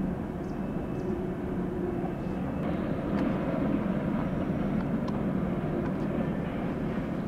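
Empty Union Pacific coal train rolling along the grade: a steady rumble of the hopper cars' wheels on the rails, with a low hum underneath, growing a little brighter and louder about two and a half seconds in.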